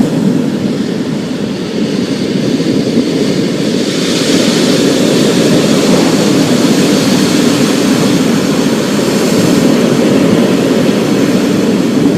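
Thunderstorm ambience: a steady low rumble under a hiss of rain, the hiss growing stronger about four seconds in.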